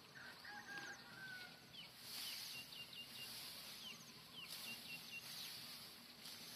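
Faint birdsong: a few whistled notes near the start, then a short phrase, a quick rising note followed by a run of rapid high chirps, sung twice.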